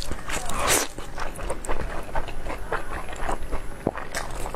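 Close-miked mukbang eating: chewing and biting food with many short wet smacks and clicks, and one longer rushing sound a little under a second in.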